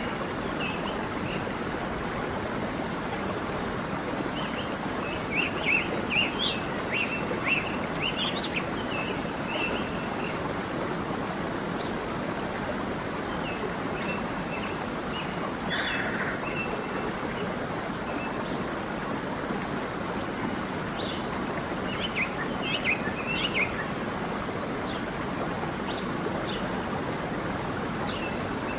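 A stream running with a steady rush, with small birds chirping and twittering over it in short bursts, busiest in two spells early on and about three quarters of the way through.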